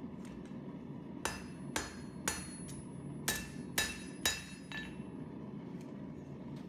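Hand hammer striking hot 1084 carbon steel on an anvil, each blow ringing. The blows come in two runs of three, about half a second apart, followed by a few lighter taps.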